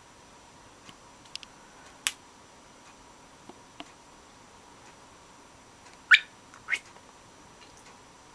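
Pied cockatiel making sharp, separate clicks that imitate a gas cooker's ignition clicking. The clicks are spread out irregularly, with the two loudest close together near the end.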